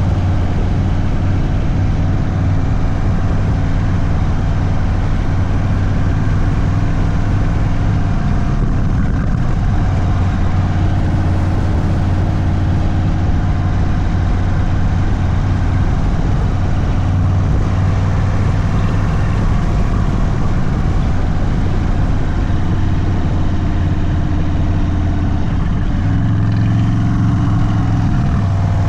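Indian Sport Chief's V-twin engine, stage 2 tuned and breathing through a Sawicki Speed aftermarket exhaust, running at a low, steady engine speed. The engine note shifts a little once partway through and again near the end.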